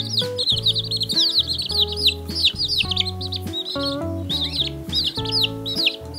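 A brood of quail chicks peeping without pause: many overlapping high, short chirps, each sliding down in pitch. Background music plays underneath.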